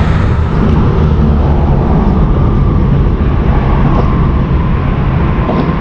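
Steady low engine drone, holding at an even level throughout.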